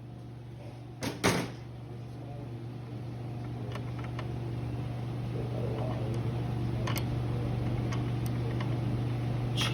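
A steady low hum that slowly grows louder, with two knocks about a second in and a few faint clicks later.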